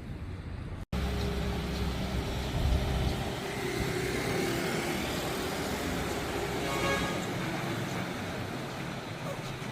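Heavy truck engine running steadily, mixed with road noise. The sound breaks off for an instant about a second in, then resumes.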